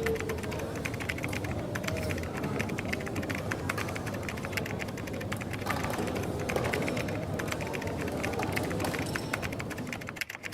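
Typing on a computer keyboard: a run of quick, irregular key clicks over the steady background noise of a coffee shop.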